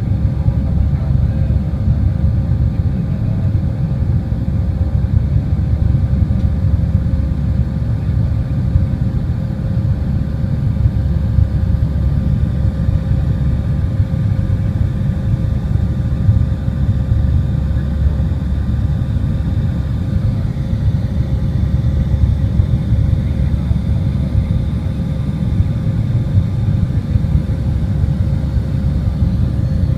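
Airliner cabin noise during takeoff: the jet engines and rushing air make a steady low rumble, with faint steady whining tones above it.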